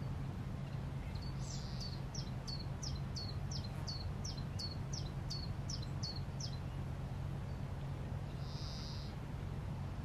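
A songbird singing a run of about a dozen short, high, falling notes, two or three a second, then a single short buzzy note near the end, over a steady low hum.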